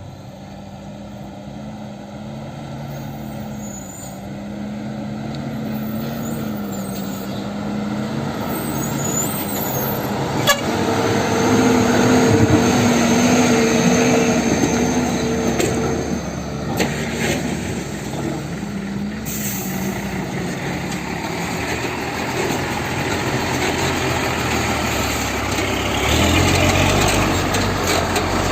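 Loaded dump truck's diesel engine running, growing louder over the first dozen seconds as the truck draws near. Its brakes squeal high and steady for about five seconds midway, with a sharp click just before.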